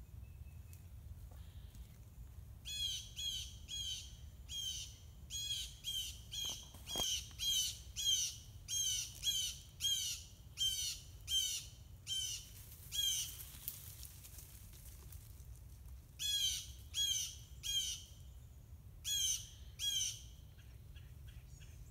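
A bird calling a series of loud, short notes that each fall in pitch, about two a second. A long run stops about thirteen seconds in, and two shorter runs follow near the end.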